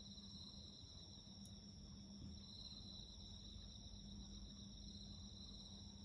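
Faint insects singing in a steady, continuous high trill, with a low steady hum beneath.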